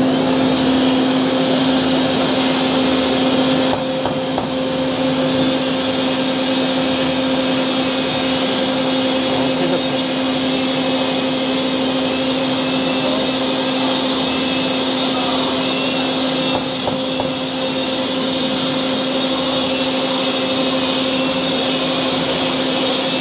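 Angle grinder grinding concrete with a dust extractor drawing off the dust, a steady motor whine and hum. About five seconds in, a higher-pitched whine joins and holds.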